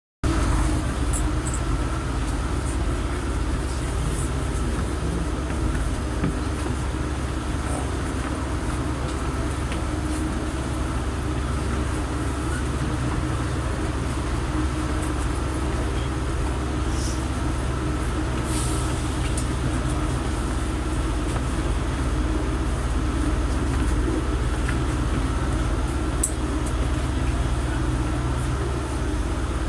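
Passenger train heard from inside a carriage while running: a steady low rumble with a few brief high-pitched sounds over it.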